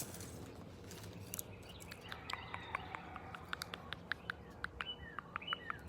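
Birds chirping in the background: a run of short, quick chirps that sweep downward in pitch, starting about two seconds in, over scattered small clicks.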